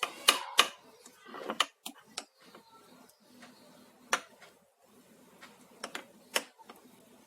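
A spoon clinking and scraping against a bowl as cake batter is mixed, with a quick run of knocks in the first two seconds and then single sharp taps about four and six seconds in.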